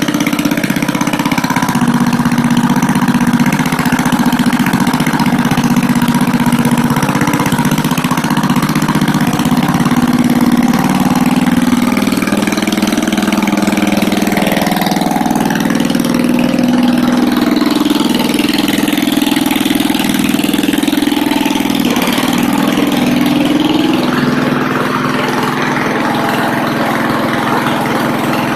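Small single-cylinder 5 hp engine of a 1970 Ariens walk-behind snowblower running steadily, its pitch shifting slightly now and then.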